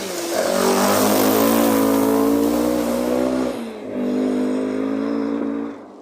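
Rally car driving hard along a forest stage, its engine revving under full throttle with the pitch climbing, a short break about three and a half seconds in as it changes gear, then pulling again before the sound drops away sharply near the end.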